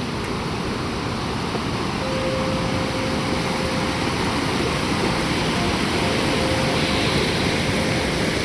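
Fast-flowing glacier stream rushing steadily over rocks, a constant full-bodied rush of water.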